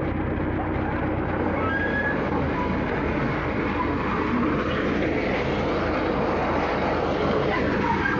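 Road roller's diesel engine running steadily, a continuous mechanical rumble.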